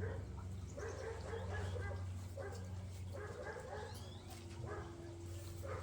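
A dog barking in a string of short barks, over a steady low hum.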